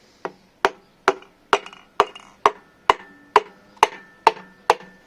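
A piston being tapped down into the cylinder bore of a Toyota 2E engine block, about eleven even, gentle taps roughly two a second.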